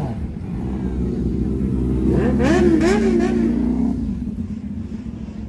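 A car engine revving over a steady low rumble; the revs climb to a peak about two to three seconds in and fall away after about four seconds.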